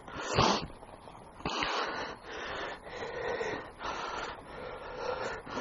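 A hiker breathing hard close to the microphone, about five loud, noisy breaths, each lasting roughly half a second.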